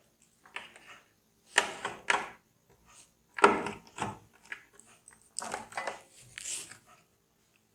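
Hands handling objects: a string of short, irregular knocks and rustles, about half a dozen, the loudest a little past the middle.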